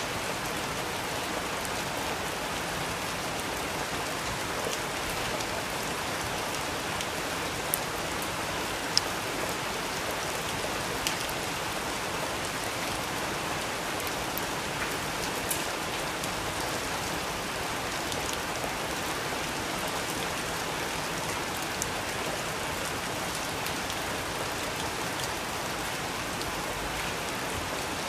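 Steady rain falling, an even hiss with a few sharp, louder drop ticks now and then.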